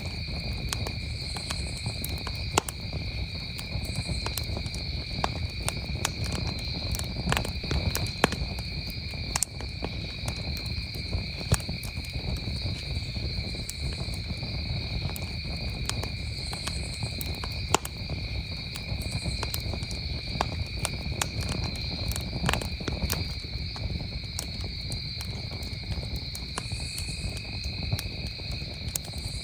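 Crickets chirping steadily in two continuous high-pitched trills, over a wood campfire crackling with frequent sharp pops and a low rushing of the flames.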